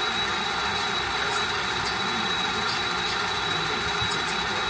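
Radio-controlled Tamiya Volvo FH16 model truck running steadily: a constant mechanical hum with a thin high whine over it and a few faint ticks.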